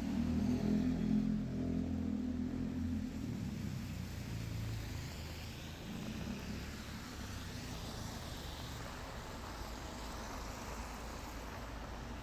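A car going past in the rain: its engine hum is loudest for the first few seconds, then fades away, leaving steady rain noise.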